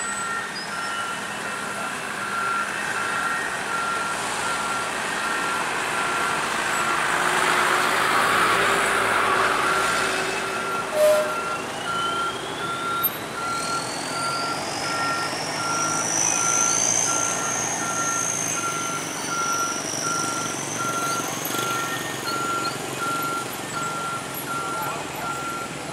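A truck's reversing alarm beeping at an even, steady pace over truck engine noise. A swell of noise builds around the middle, with a sharp knock about eleven seconds in, and a high tone slowly rises and falls in the second half.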